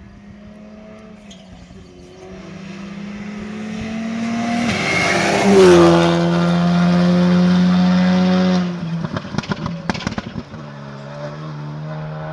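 Rally car engine at high revs approaching and passing close by, the note rising in loudness and dropping in pitch as it goes past. About nine seconds in the engine note cuts away and a quick run of sharp pops and crackles follows, then the engine picks up again more quietly.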